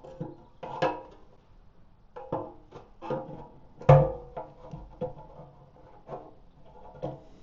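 Irregular metallic clanks and knocks, each ringing briefly at the same pitch, from the motorcycle's metal fuel-system parts being handled and struck. The loudest knock comes about four seconds in.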